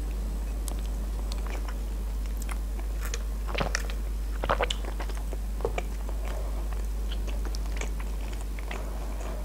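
Close-miked mouth sounds of a person biting into and chewing a KFC chicken burger on a soft sesame bun: wet clicks and smacks over a low steady hum. A brief sip of cola through a straw comes near the middle, where a few louder clicks fall.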